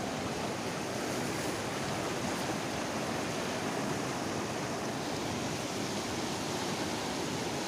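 River water rushing steadily, an even, unbroken hiss of flowing current.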